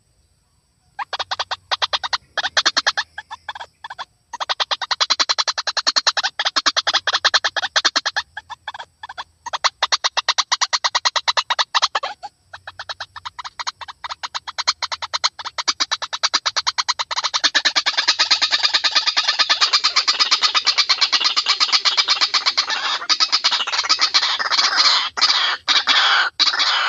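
White-breasted waterhen calling from a bird-lure recording: fast, harsh runs of repeated notes, in bursts with short breaks at first, then running on without a pause through the last third.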